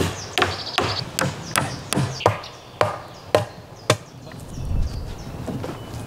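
Hammer driving nails into wooden roof poles: about ten sharp strikes, roughly two or three a second, some with a short metallic ring, stopping a little after halfway.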